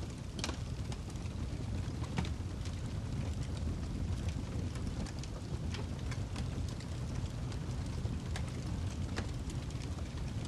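Wood fire burning in a fireplace: irregular sharp crackles and pops from the burning log over a steady low rumble of the flames.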